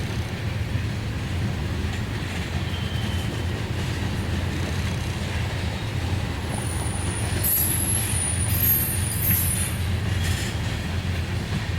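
A freight train of tank cars rolling past with a steady low rumble of wheels on rail. High-pitched wheel squeals come in the second half.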